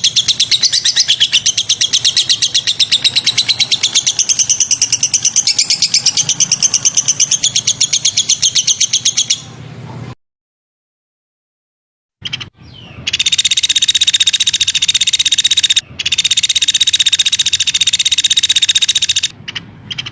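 Recorded songbird calls from a birdsong tutor track: a fast, continuous high chattering trill for about nine seconds, then a sudden cut to silence. After about three seconds a different high, rapidly pulsing trill starts and runs on with brief breaks.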